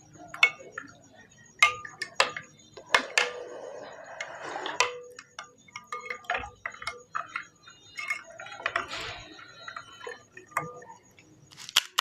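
Crisp pani puri shells crackling and cracking, with utensils tapping and clinking against steel dishes that ring briefly after some of the taps.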